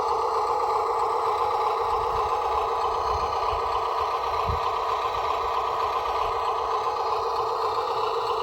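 Electric motors and gearboxes of a radio-controlled model construction vehicle running with a steady whine, with some clatter and a low knock about four and a half seconds in.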